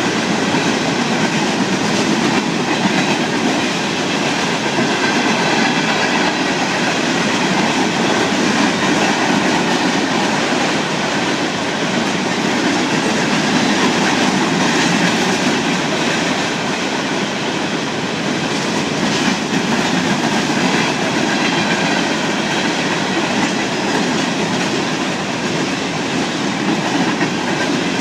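A train rolling past close by: a steady, loud rumble and clatter of its wheels on the rails that holds without a break.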